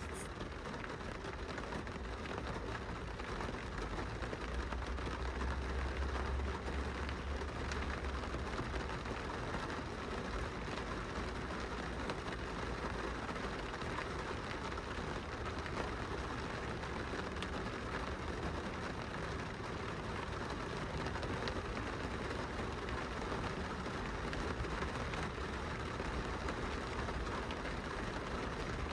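Steady rain falling on a car's glass window, heard from inside, with many small drop hits. A low rumble swells between about four and eight seconds in.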